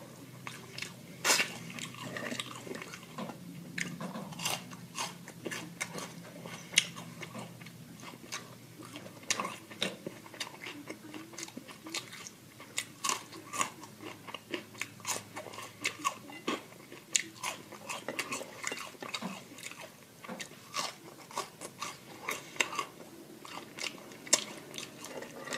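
Close-miked chewing and biting of fast food, with many sharp crunches at irregular intervals.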